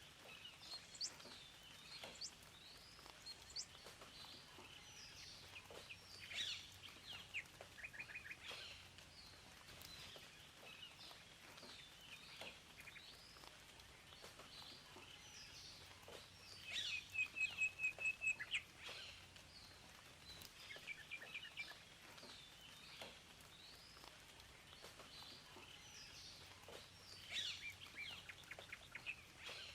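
Songbirds chirping and singing: many short, high calls over a faint background hiss, with a louder rapid trill a little past the middle.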